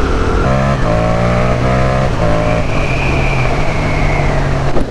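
Yamaha MT-07 parallel-twin engine through an aftermarket exhaust, accelerating hard through several quick upshifts in the first couple of seconds, then running steadily at speed.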